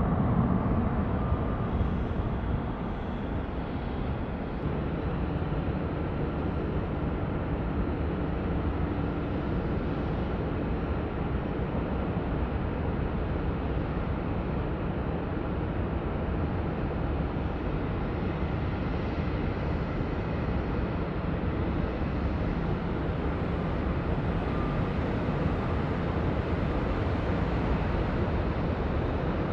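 Jet airliner engine noise, a steady wash of sound that is loudest at the start, eases off over the first few seconds, then holds even.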